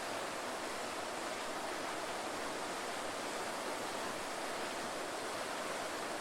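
Waterfall: a steady, even rush of falling water, more hiss than deep rumble, with no change in level.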